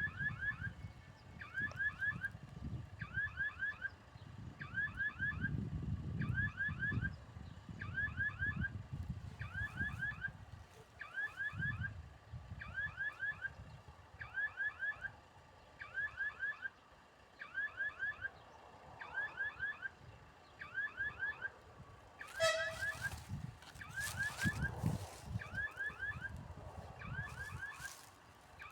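Railway level-crossing warning signal ringing in quick groups of strokes, about one group a second, steady and unchanging. Underneath is an uneven low rumble, and about 22 seconds in there is a brief sharp sound.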